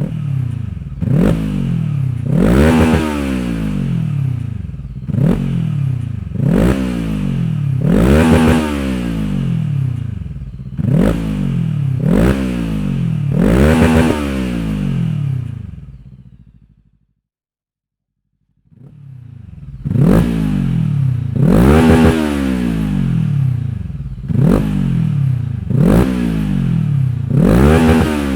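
2024 Rieju Aventura 500's parallel-twin engine breathing through a Dominator aftermarket exhaust, revved in repeated throttle blips that rise sharply and fall back, about one every second and a half. The sound stops for about two seconds past the middle, then the engine picks up again and keeps blipping.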